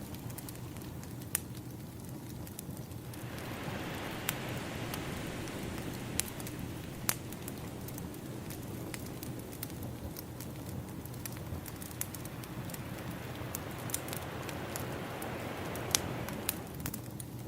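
Crackling wood fire with scattered sharp pops, layered over ocean waves washing in and out; a wave swells about three seconds in and another near the end.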